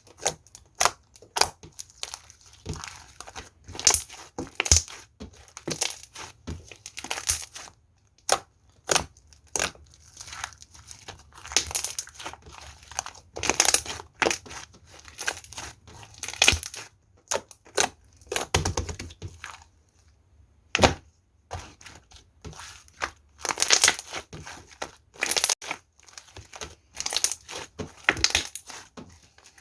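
Slime being squeezed and worked by hand, making irregular sticky crackles and sharp popping clicks with no steady rhythm.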